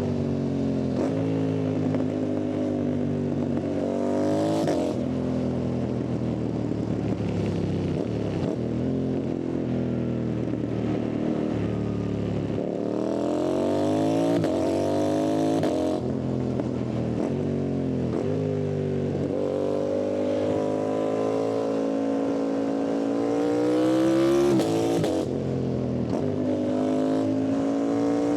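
Yamaha MT-07's parallel-twin engine running hard, its pitch climbing under acceleration and dropping back several times as the rider shifts and rolls off, with wind rushing past at speed.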